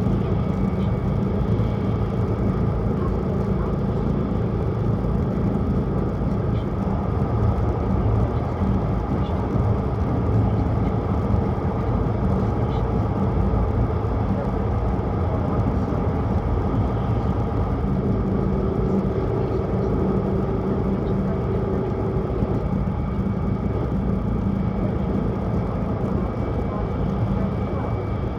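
Cabin noise of a Tohoku Shinkansen Hayabusa train running at speed: a steady rumble and hum from the wheels and running gear, with a faint higher tone for a few seconds past the middle.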